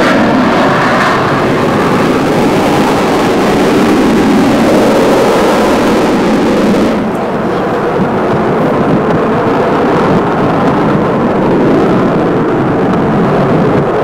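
Avro Vulcan B2's four Rolls-Royce Olympus turbojets running loud in a flypast. About seven seconds in the high hiss drops away and a lower rumble carries on, as from an aircraft passing overhead and moving off.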